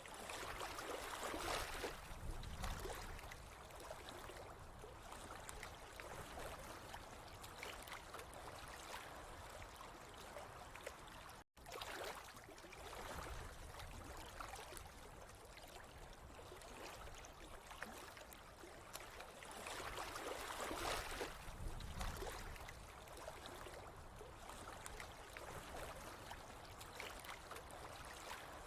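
Water running and trickling steadily, swelling louder about a second in and again about twenty seconds in. The sound drops out for an instant near the middle.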